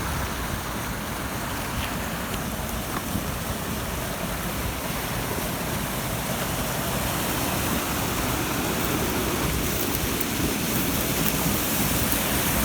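Steady rushing of high floodwater, getting a little louder toward the end.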